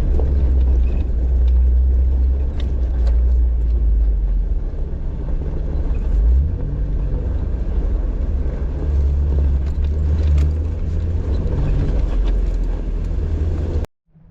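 Jeep driving a rough dirt trail: a steady low engine and drivetrain rumble with scattered small clicks and rattles, cutting off suddenly near the end.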